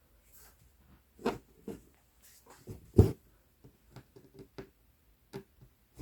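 Cross-stitching handling sounds: irregular soft taps and rustles as the needle is pushed through 11-count Aida cloth and the thread pulled, with one louder thump about three seconds in.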